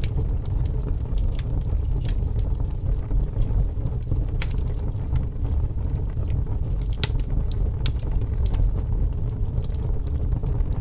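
Wood fire burning with a steady low rumble and scattered sharp crackles and pops, with a quick run of louder pops about seven seconds in.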